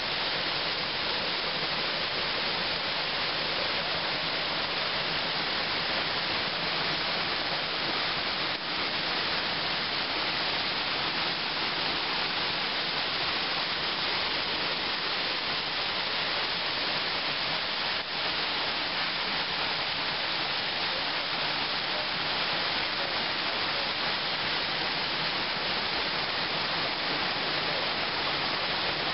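Steady rushing of water from a waterfall, a constant even hiss.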